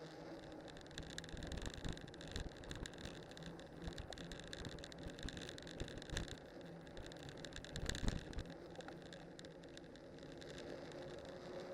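A cyclocross bike on studded winter tyres rolling downhill over snow and ice: steady tyre and wind noise with scattered clicks and rattles, and a louder bump about eight seconds in.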